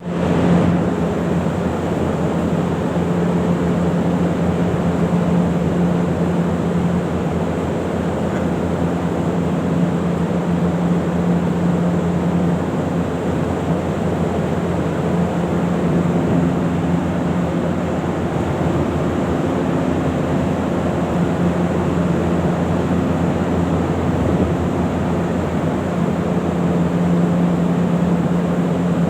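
Steady, unchanging mechanical drone: a low hum over a constant rushing noise.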